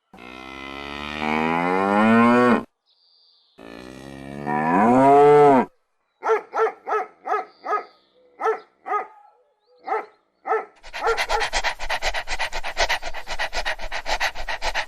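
Cow mooing: two long calls rising in pitch, the second rising then falling. These are followed by a run of about a dozen short calls and then a fast, evenly pulsed call that carries on to the end.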